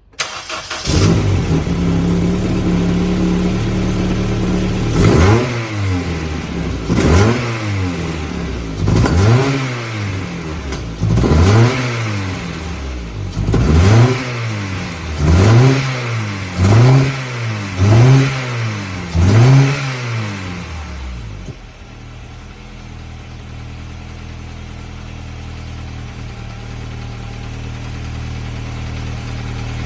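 Honda Accord Euro R's H22A 2.2-litre DOHC VTEC four-cylinder engine running at a steady idle. From about five seconds in it is blipped up and back down about ten times in a row, every second or two. It then settles back to a lower, steady idle.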